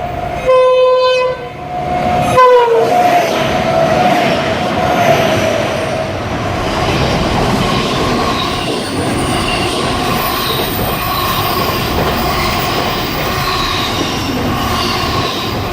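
Freight train horn sounding two blasts, the second falling in pitch as the locomotive passes, then the freight wagons rolling past with steady rumble and clatter and thin wheel squeal.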